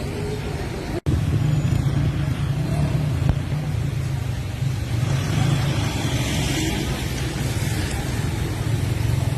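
Steady low rumble and noise of a motor vehicle running, with a brief break about a second in.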